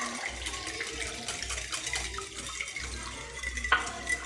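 Wire whisk stirring a thin, watery sauce in a bowl: a steady liquid sloshing with light ticks, and a sharp clink of the whisk against the bowl near the end.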